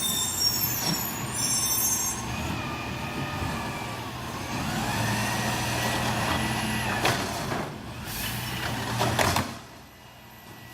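City garbage truck running, with high squeals at the start and shifting whines, then several short blasts of air hiss from the air brakes between about seven and nine seconds in; it quietens about nine and a half seconds in.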